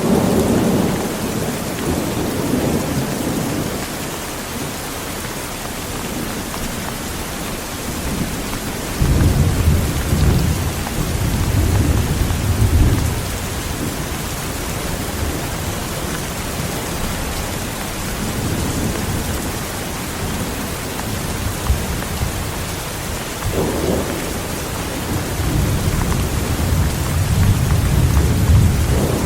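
Heavy rain falling steadily with rolling thunder. Low thunder rumbles fade out at the start, swell again about a third of the way in, and return near the end.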